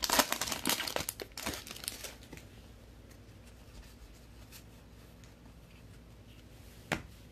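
Plastic wrapping crinkling as trading cards are handled, dense for about two seconds, then quieter handling with a single sharp tick near the end.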